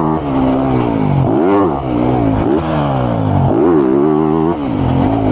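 Motocross bike engine revving hard, its pitch climbing and then dropping back about three times as the throttle opens and closes.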